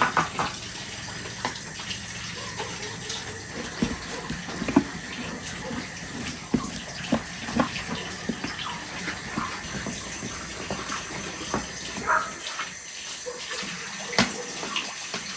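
Steady rain, an even rushing hiss throughout, with scattered small clicks and knocks over it.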